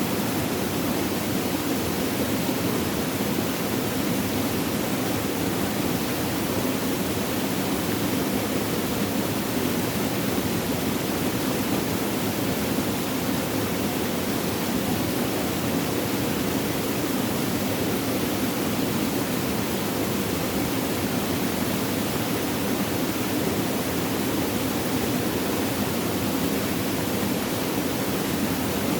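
Flowing water: a steady, unbroken rush with no splashes or changes.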